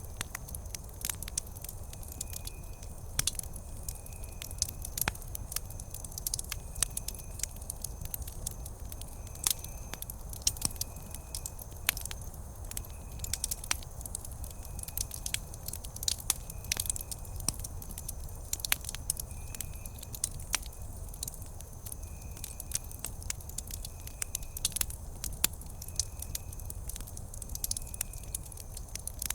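Wood campfire crackling, with frequent sharp pops and snaps over a low, steady rumble of the burning fire.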